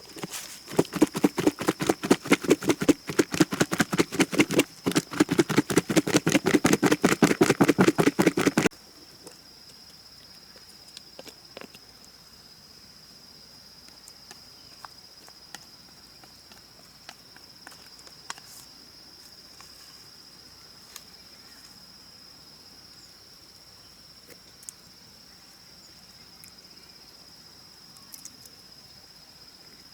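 A rapid run of loud, even strokes, about five or six a second, cuts off suddenly about nine seconds in. After that, a steady high-pitched drone of rainforest insects remains, with scattered faint clicks.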